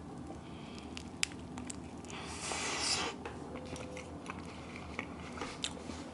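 A person eating leftover shawarma close up: biting and chewing with small wet clicks, and a brief louder rustle a little over two seconds in.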